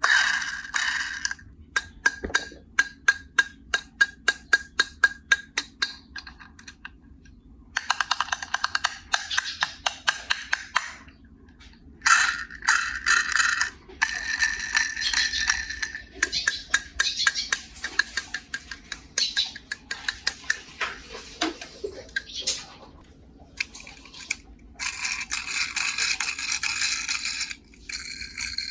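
Small die-cast toy cars and a plastic hauler case being handled. A quick run of clicks, about five a second, for a few seconds, then long bursts of plastic rattling and scraping.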